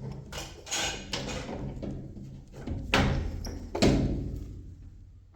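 Three heavy knocks or thuds, each fading out slowly, with a low steady hum underneath.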